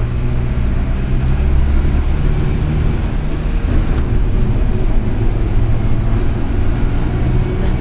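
Mercedes-Benz OF-1722M bus's turbocharged diesel engine running under a steady low rumble, with a thin high turbo whistle. The whistle rises about a second and a half in, dips briefly, then holds steady.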